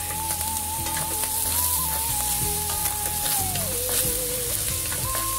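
Beef and vermicelli sizzling as they are stir-fried with freshly added seasonings, with a few light clicks. Background music plays a slow melody of long held notes over it.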